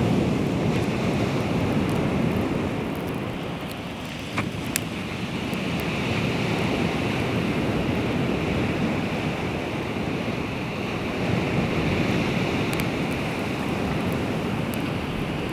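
Baltic Sea waves washing onto the shore, swelling and easing, with wind buffeting the microphone. A few sharp clicks cut through about four and a half seconds in and again near the end.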